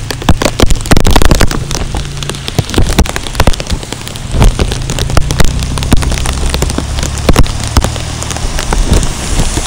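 Heavy rain, with drops striking close to the microphone in sharp, irregular taps, over a low steady hum of cars driving through the flooded street.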